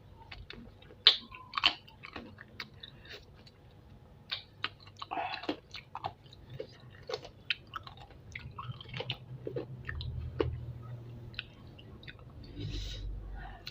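A person chewing and biting spicy chicken feet up close to the microphone: irregular sharp mouth clicks and small crunches, the loudest about a second in.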